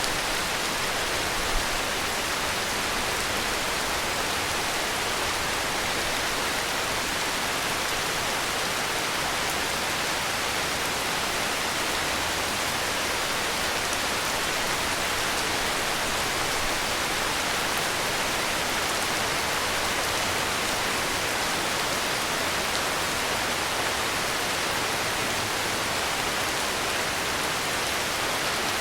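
Heavy rain falling in a steady, even hiss, with no distinct drops or thunder standing out.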